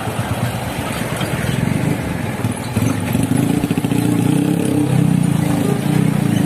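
Truck diesel engine running, growing louder and heavier about three seconds in as it comes nearer or pulls under load.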